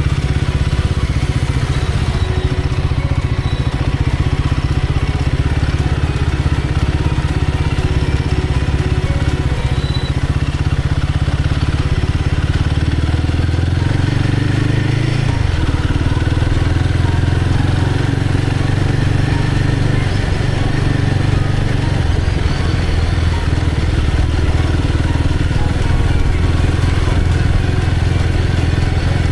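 Royal Enfield Guerrilla 450's single-cylinder engine running on the move, a steady low drone. Its note drops about thirteen seconds in and changes again a couple of seconds later.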